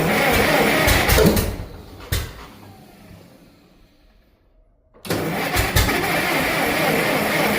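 Cold gasoline tractor engine being cranked on its electric starter with the choke on, failing to catch: one cranking attempt that dies away in the first few seconds, then a second attempt starting about five seconds in. The engine is hard to start in the cold, which the owner thinks may be from flooding or over-choking.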